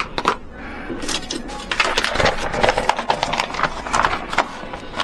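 Irregular run of sharp clicks, knocks and rattles of hard objects being handled, thickest from about halfway in.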